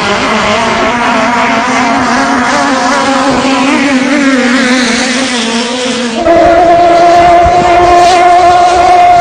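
Racing boat's engine running hard; about six seconds in its pitch steps up and it gets louder, holding there.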